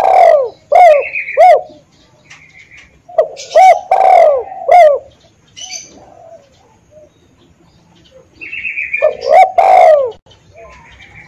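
Spotted dove (tekukur) cooing: three loud bursts of its phrased call, each a quick run of short arching coo notes, at the start, about four seconds in, and again near ten seconds. Fainter high chirps sound in the gaps.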